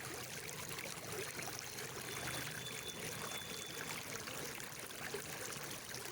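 Steady flowing water of a stream or creek, an even rushing trickle, with a faint thin high tone for a couple of seconds in the middle.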